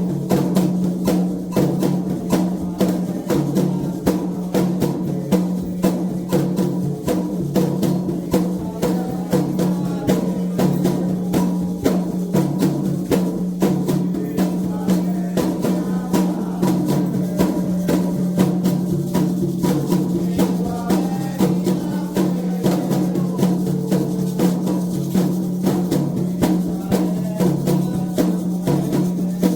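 Candomblé ritual drumming on atabaque hand drums, played in a dense, steady rhythm.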